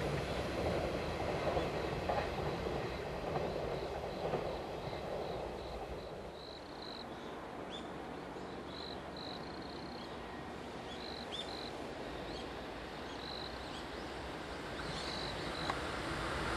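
Rumble of a train fading away over the first few seconds, then quiet outdoor background with repeated short bird chirps. Near the end the noise of an approaching 485-series electric limited express train begins to build.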